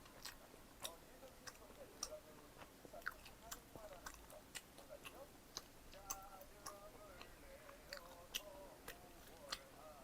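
A person chewing pizza close to the microphone, with soft, irregular wet mouth clicks and smacks, about two a second.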